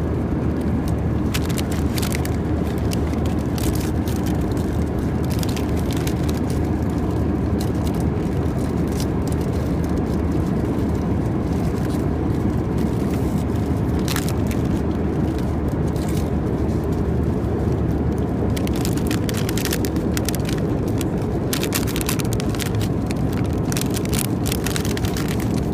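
Steady roar of an Airbus A320's cabin in climb, engine and airflow noise. Over it, scattered crackles and crinkles, more frequent in the last several seconds, from the sandwich's packaging being handled.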